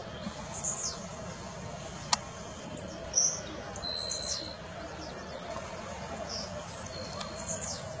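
Wild birds calling: several short, high chirps and a brief steady whistled note about four seconds in, over a steady background hiss. A single sharp click about two seconds in.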